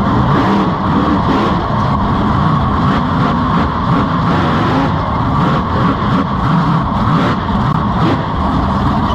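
Monster truck engine running loud and fairly steady with small rises and falls, heard from on board the truck.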